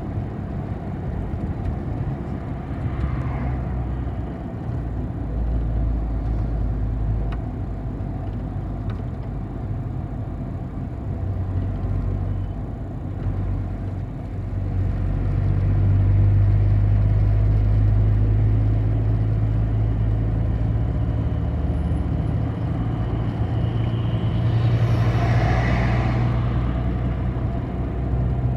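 City bus engine running steadily as heard from inside the passenger cabin, pulling harder and louder about halfway through. A short hiss comes near the end.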